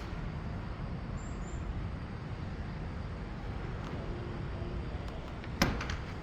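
Steady low outdoor rumble, like distant traffic or wind, with one sharp knock about five and a half seconds in.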